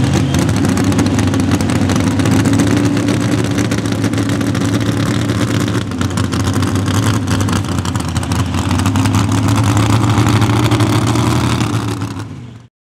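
Mini rod pulling tractor's engine at high revs, a loud, steady drone whose pitch rises and falls slightly. It cuts off suddenly near the end.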